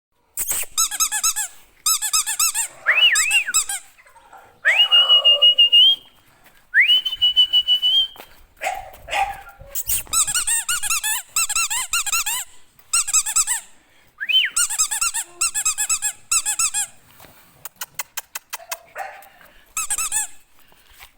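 English bulldog whining and squealing in runs of rapid high-pitched squeaks, with two long, steady whines about five and seven seconds in.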